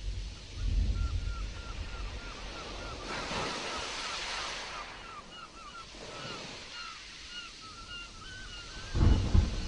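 Stormy sea surf washing and surging, with a deep rumble about a second in and a heavier one near the end. Over it a bird calls over and over, short pitched notes about twice a second, joined by a fainter, higher call in the second half.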